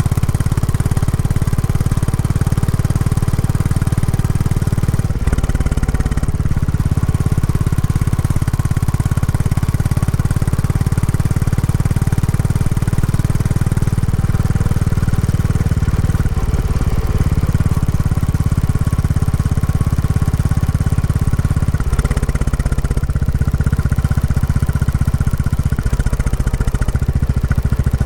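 Royal Enfield Classic 350's single-cylinder engine running through its stock exhaust while ridden during break-in, its note shifting a few times as the engine speed changes.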